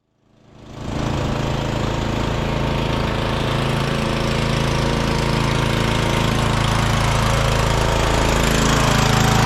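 Lawn tractor engine running steadily at a constant speed, fading in over the first second.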